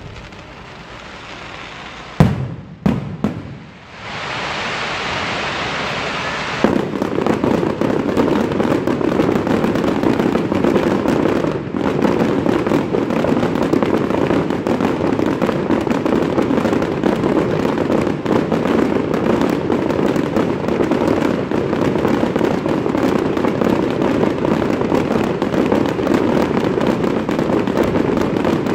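Fireworks display: a few sharp bangs about two seconds in, then a hissing rush, and from about seven seconds on a dense, unbroken run of rapid pops and bangs.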